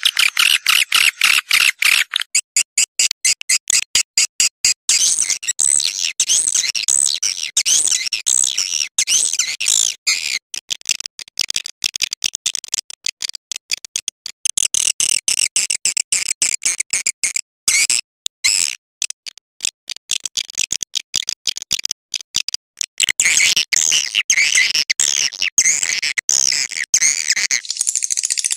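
Many swiftlets twittering and clicking in a dense, rapid chatter of high chirps. This is a swiftlet lure call recording of the kind played to draw swiftlets into a nesting house. It is densest at the start and again in the last few seconds.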